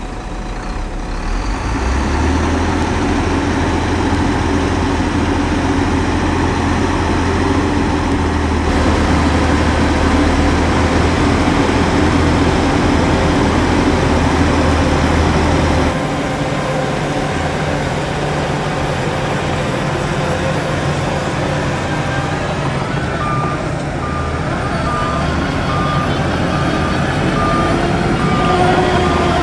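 Heavy diesel earthmoving machinery running, a deep steady engine drone whose low note changes about halfway through; in the last few seconds a reversing alarm beeps at an even pace, about once a second.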